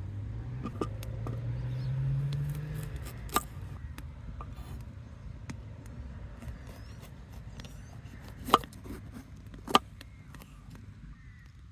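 Campfire burning with scattered crackles and three loud sharp pops, about three seconds in, then near eight and a half and nearly ten seconds in. A low drone slowly rises in pitch during the first three seconds.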